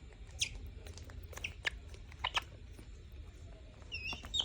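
Small pet falcon eating: scattered sharp clicks and snaps of its beak tearing at food, with a short high squeaky call near the end.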